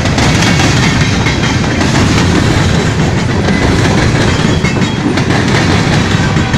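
A long train passing close by: a loud, steady rumble of the wheels on the rails, with faint repeated clicks running through it.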